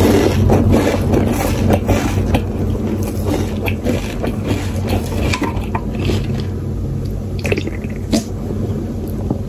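Close-miked chewing of crunchy Lay's potato chips: dense crisp crunches for the first few seconds, thinning out to scattered softer mouth clicks. Near the end come swallowing sounds as she drinks from a can.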